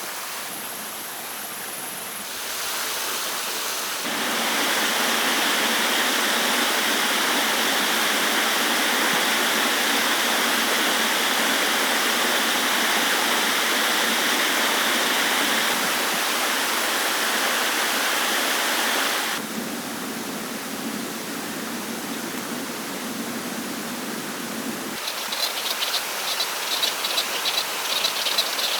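Running water, like a stream or small waterfall, as a steady rush that jumps in level several times and is loudest between about 4 and 19 seconds in. Near the end a rapid, pulsing high buzz sets in over it.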